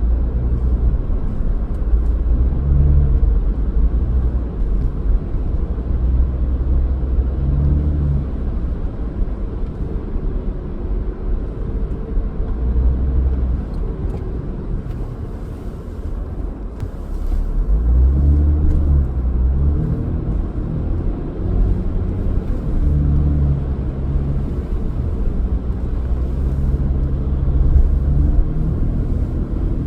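Car driving: a steady low engine and road rumble, with the engine note rising and falling every few seconds as the car speeds up and slows.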